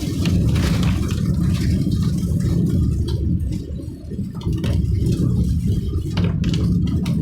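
Steady low rumble of a moving vehicle's engine and tyres on the road, with scattered light rattles; it eases briefly about four seconds in.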